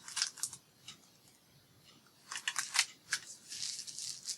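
Scissors snipping paper in two short runs of crisp cuts, with paper rustling near the end.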